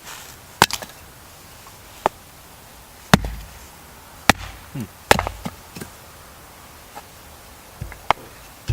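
Firewood being split into small kindling sticks: about eight sharp wooden knocks at irregular intervals of roughly a second, some with a dull thud beneath.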